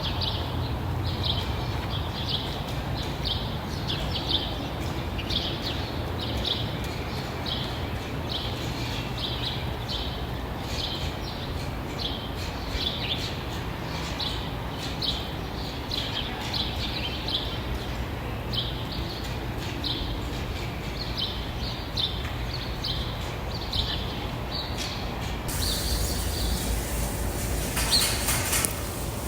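Small birds chirping in short repeated notes, about one or two a second, over a steady low rumble. A steady hiss joins in near the end.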